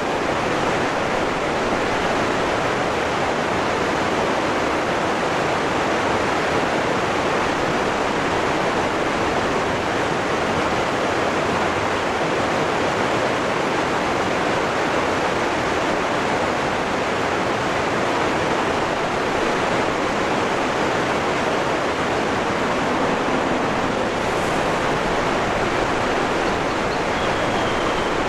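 Waterfall rushing: a steady, even noise of falling water with no breaks or changes.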